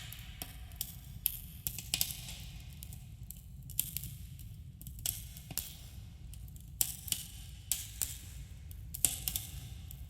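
Wood campfire crackling, with irregular sharp pops of varying loudness over a low, steady rumble of the burning fire.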